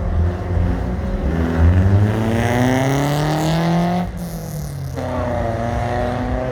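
A car engine accelerating hard, its pitch climbing steadily for about three seconds. About four seconds in, the sound cuts off abruptly to a quieter engine note that dips and then climbs again.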